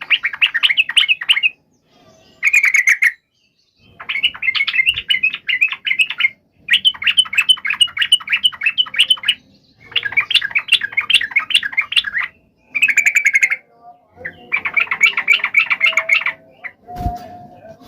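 Yellow-vented bulbuls (trucuk) giving their fast, bubbling chatter in repeated bursts of quick notes with short pauses between: excited, agitated calling of the kind used to provoke a caged bird into answering. A short low thump comes near the end.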